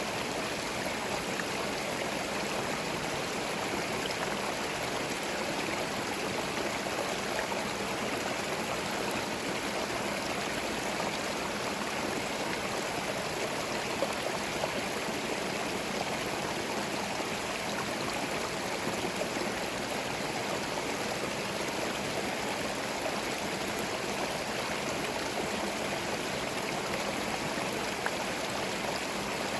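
Small forest stream running over stones: a steady, unbroken babble and trickle of flowing water.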